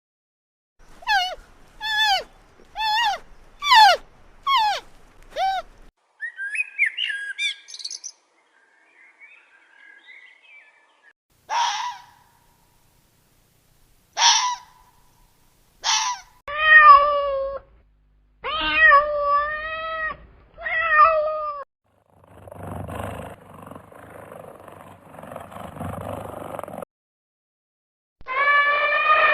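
A run of different animal calls one after another: six quick falling calls, a few short sharp cries, several wavering calls, a stretch of rougher noisy sound, and a long drawn-out call near the end.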